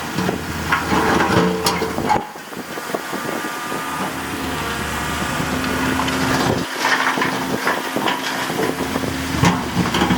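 Diesel engines of heavy earthmoving machinery running steadily, with scattered knocks and clatter. The sound changes abruptly about two seconds in and again near seven seconds.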